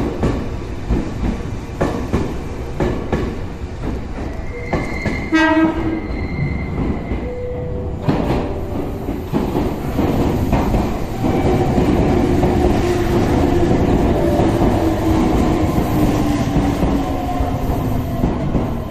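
Meitetsu electric trains in a station: a passing train's wheels clatter over rail joints, with a short horn blast about five seconds in. An arriving train follows, its motor whine falling slowly in pitch as it brakes to a stop.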